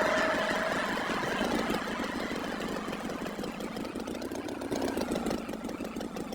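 A tractor engine chugging with a rapid knocking beat, slowly fading.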